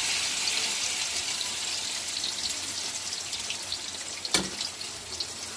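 Egg torta frying in hot oil in a wok, sizzling steadily with small crackles. A single sharp tap comes about four seconds in.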